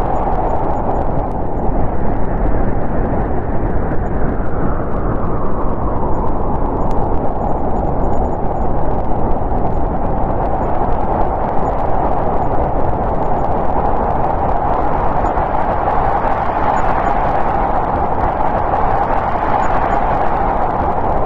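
Snowstorm wind blowing steadily, its higher, whistling part slowly swelling and easing off in long gusts over a low rumble.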